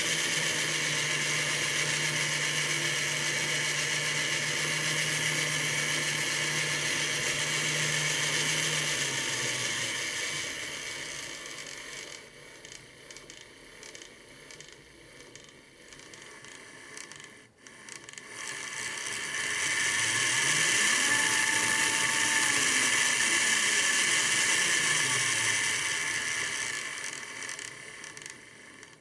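HO-scale electric model train locomotive running on its track: the small motor whirs steadily, then slows and stops about ten seconds in. About twenty seconds in it speeds up again, runs, and winds down near the end.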